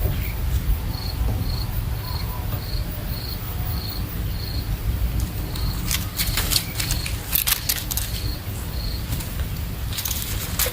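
A cricket chirping, a short high note about twice a second, over a steady low rumble. Bursts of rustling clicks come in just past the middle and again near the end.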